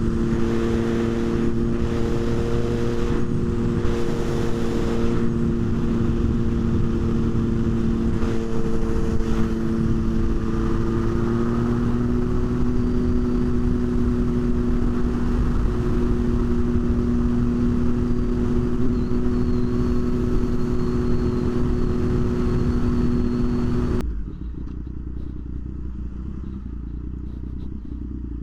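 Motorcycle engine running at a steady cruising speed with a rush of wind and road noise, its pitch stepping up slightly about halfway through. About three-quarters of the way in the sound drops suddenly to a quieter, duller rumble.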